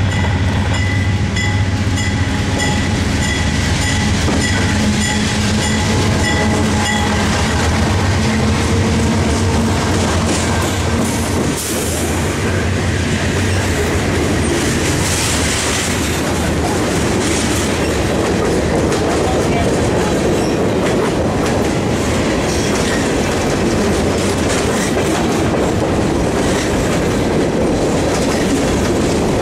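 Train passing close by: a steady low engine hum for about the first twelve seconds, then a continuous rumble of rolling railcars with a rhythmic clickety-clack over the rail joints. A faint high ding repeats about twice a second during the first several seconds.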